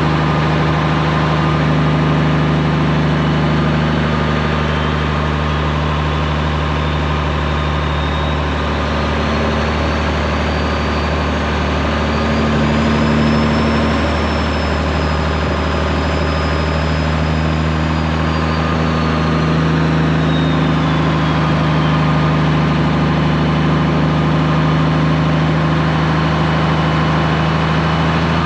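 Straight-piped Peterbilt 389's diesel engine idling steadily. A faint high whine rises slowly and falls again around the middle.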